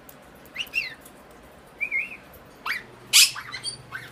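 Pet parrots calling: a few short gliding whistles and chirps, then a loud harsh squawk about three seconds in followed by more short calls.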